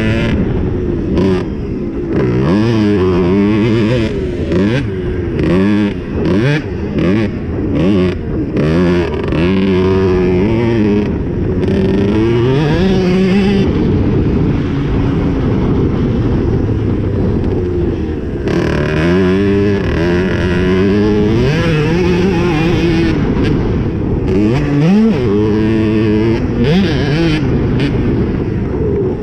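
Cobra 65cc two-stroke motocross bike engine revving hard over and over. The pitch climbs, drops back as the throttle is chopped, then climbs again, with a steadier high-revving stretch in the middle.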